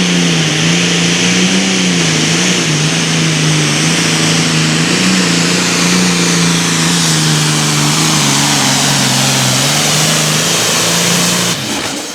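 Super Farm pulling tractor's diesel engine running hard under load, its pitch wavering up and down and dropping a little near the end. The sound cuts off suddenly just before the end.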